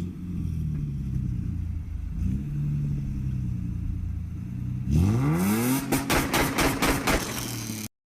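Car engine idling low and steady, then revved hard about five seconds in, its pitch sweeping sharply up, followed by a run of loud pops as the revs fall and catch again; it cuts off suddenly near the end.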